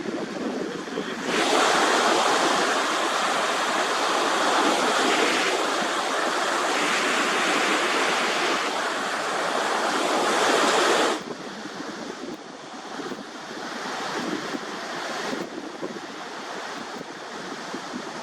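Baltic Sea surf washing ashore with wind buffeting the microphone. It is much louder from about a second in until about eleven seconds, where it drops off suddenly.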